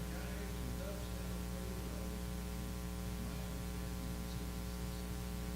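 Steady electrical mains hum with a stack of overtones, the buzz of the recording system. A faint, distant voice is just audible under it in the first half.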